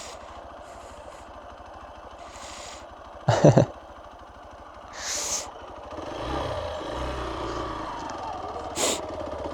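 Motorcycle engine running low and steady, growing louder from about six seconds in, with a short breathy vocal sound a little after three seconds in.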